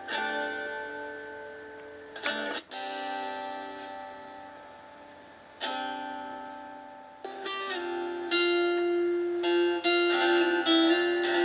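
Guitar playing a home-made song built from two guitar parts put together, not yet quite in time with each other. Single chords and notes are struck and left to ring out every two or three seconds, then from about eight seconds in the picking turns quicker and louder.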